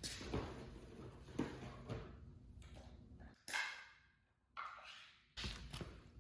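Scattered knocks and rustles of handling, with a kitten's short high mew about three and a half seconds in.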